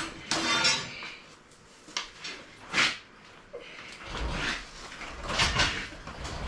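Shop engine crane being handled and moved: a few sharp metal clanks and scrapes, then a low rolling rumble with more scraping from about four seconds in.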